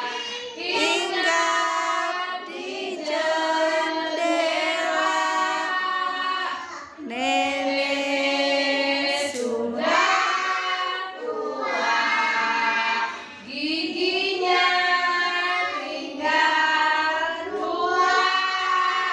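Children singing a song together, in phrases of long held notes, with short breaks between phrases about seven and thirteen seconds in.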